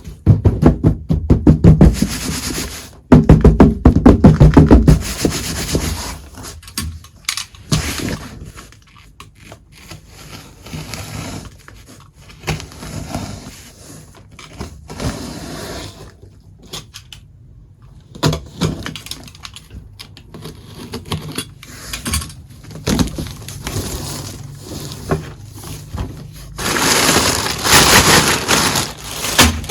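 Small toy kitchen pieces and their packaging being handled: a fast run of loud clicks and rattles at first, then scattered taps and knocks, and a stretch of rustling near the end.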